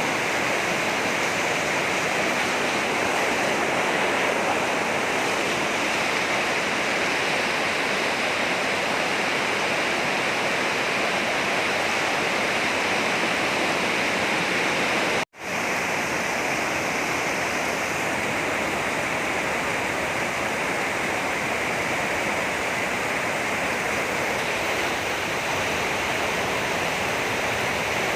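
Heavy rain falling in a steady, dense hiss. It drops out for a moment about halfway through, then resumes unchanged.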